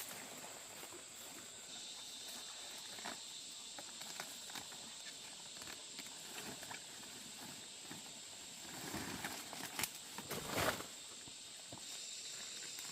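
Steady high-pitched insect drone, with scattered rustling and clicks and a louder burst of rustling and scraping about nine to eleven seconds in.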